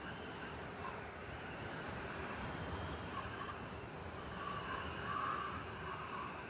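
City blizzard ambience: steady wind-driven snowstorm noise over a low rumble of city traffic, swelling slightly about five seconds in.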